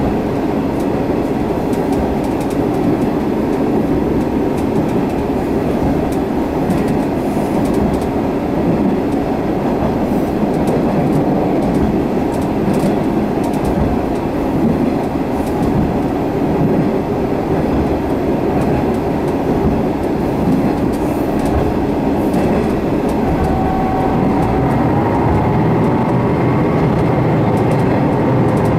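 Inside a Sanriku Railway diesel railcar running along the line: the steady running noise of wheels on rails and the engine. Occasional faint clicks come over the rail joints.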